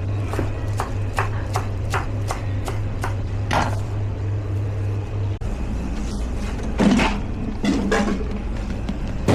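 Kitchen work: a run of short, evenly spaced knocks, about two to three a second, over a steady low machine hum, then a few heavier knocks near the end as the hum changes about five seconds in.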